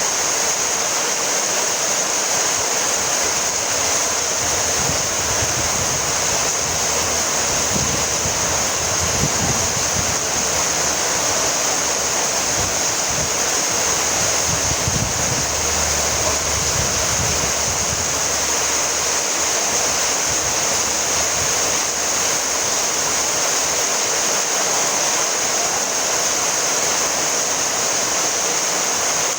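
Steady heavy rainfall: a dense, even hiss that brightens toward the top, with a soft low rumble coming and going in the middle.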